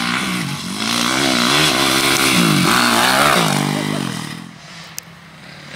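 Motocross bike engine revving hard as it rides past, its pitch climbing and dropping several times as the throttle is worked, loudest about halfway through and fading away after about four seconds.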